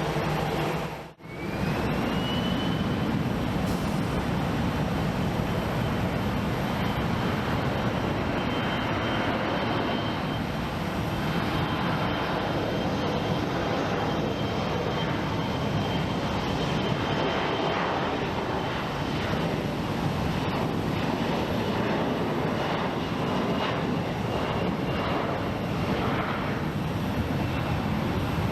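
Regional jet's engines at takeoff power: a steady broad rush with a high whine that rises in pitch just after the start, then holds steady. The sound cuts out briefly about a second in.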